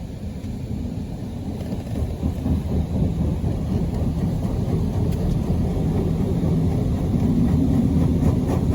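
PDQ LaserWash 360 touchless car wash running: a steady low rumble that grows gradually louder.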